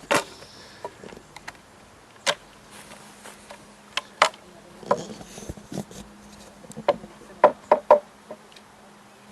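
Irregular sharp wooden knocks and clicks from beehive boxes and frames being handled, several loud strokes in a row near the end. A faint steady hum of honeybees comes in about halfway through.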